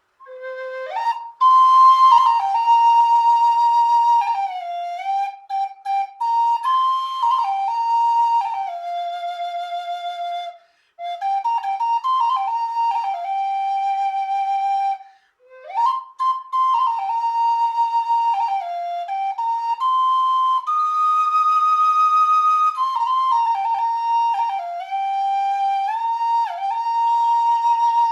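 Solo flute playing a slow melody of held notes that slide into one another, its phrases broken by short pauses for breath about 11 and 15 seconds in.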